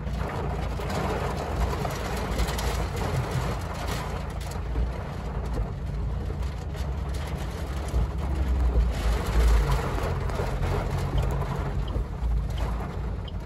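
Heavy rain pelting the car's roof and windshield, heard from inside the cabin as a steady hiss over a low rumble from the car.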